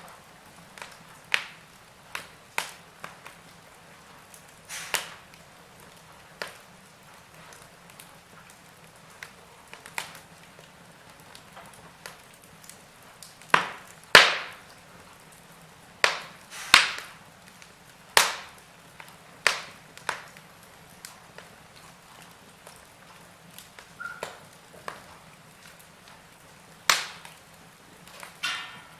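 Wood fire crackling in a fireplace: irregular sharp pops and snaps, several louder cracks about halfway through, over a faint steady low hum.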